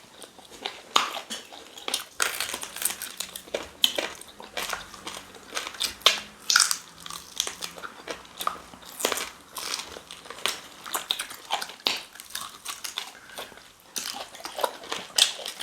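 Chewing and biting on cow tail pepper soup: many irregular wet mouth clicks, smacks and small crunches.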